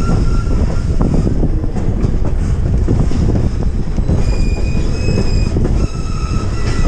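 Passenger train cars rolling on the rails with a steady rumble, and steel wheels squealing against the rail briefly near the start, then again about four seconds in and just before the end.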